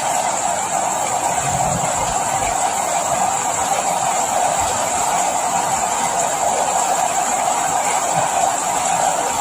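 Rain falling steadily, an even noise without letup.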